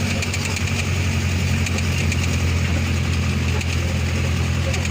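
A motor vehicle's engine running at a steady pitch, heard from on board, with faint light rattling.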